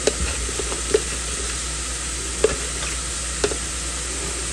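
Onions frying in oil in a pan, a steady sizzle, with a few faint clicks and taps.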